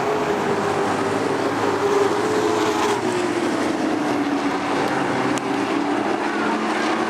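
Race trucks' engines running on the track, a steady drone whose pitch dips slightly a few seconds in.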